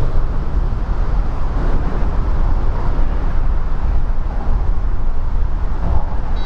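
Steady rumble of vehicle noise with no breaks, heaviest in the low end, heard under an interstate highway overpass in heavy rain.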